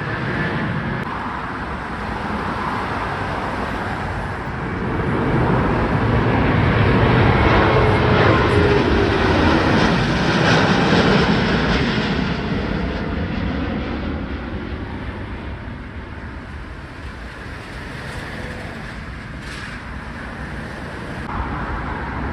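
Jet airliner's engines on a takeoff departure. The noise swells to its loudest about a third of the way in, with faint falling tones, then fades as the aircraft climbs away, and begins to rise again near the end.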